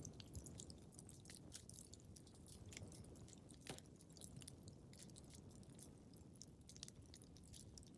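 Quiet crackling of a fireplace fire: irregular sharp pops and snaps, several a second, over a low steady rumble.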